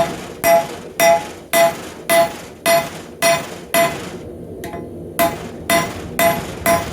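Blacksmith's hand hammer striking hot half-inch rebar laid over a hardy tool on the anvil, about two blows a second, each with a ringing metallic tone, with a short pause about four seconds in. The blows are spreading the rebar out to draw the knife blade.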